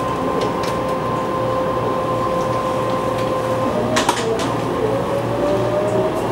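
Taiwan Railway EMU500 electric multiple unit's GTO VVVF inverter whining under acceleration, over steady train running noise. The whine holds one steady pitch, then about four seconds in, after a couple of sharp clicks, it changes to a new tone that slowly rises in pitch.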